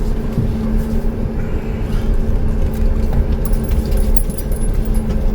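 Cab noise inside a 2008 Pleasure-Way Ascent camper van driving slowly: steady engine hum and low road rumble, with light rattles and clinks in the second half.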